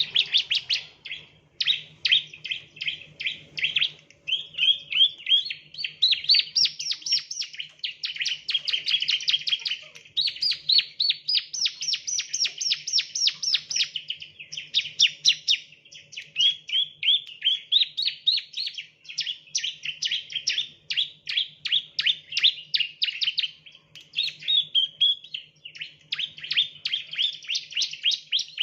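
Bar-winged prinia (ciblek) song: long, rapid trains of sharp, high chirps repeated almost without pause, some phrases climbing higher in pitch.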